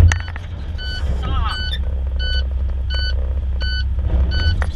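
A vehicle's reversing alarm sounding a steady series of evenly spaced beeps over the low rumble of an idling heavy vehicle engine, with a sharp knock at the start.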